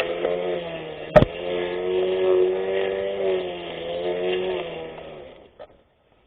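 24V brushless electric lawn mower running, a steady motor tone whose pitch wavers slowly up and down, with one sharp click about a second in. The sound dies away near the end.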